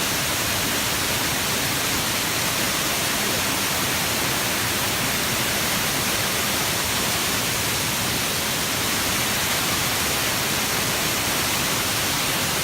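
Steady rushing of a waterfall at close range: an even, unbroken hiss of falling water.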